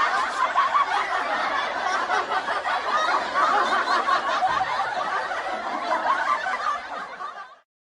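Many people laughing together, dense and continuous, fading out near the end.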